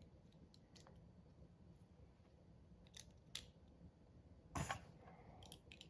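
Near silence broken by a few scattered small plastic clicks and taps from LEGO pieces being handled, with one sharper knock about four and a half seconds in.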